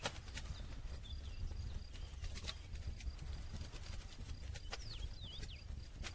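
Wood campfire crackling, with irregular sharp pops and snaps over a steady low rumble. Near the end come a few short, high, falling chirps.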